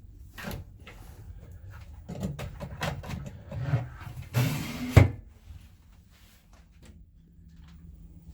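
Cabin closet shelf and doors being handled: a run of knocks and clatters, ending in a sharp bang about five seconds in as a closet door shuts. A steady low hum runs underneath.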